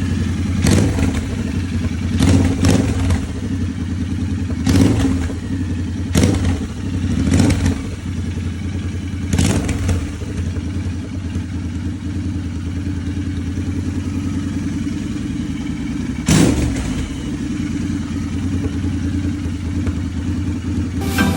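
Royal Enfield Interceptor 650's 648 cc parallel-twin engine running without its stock exhaust, idling steadily with short, sharp throttle blips, several in the first ten seconds and one more later on.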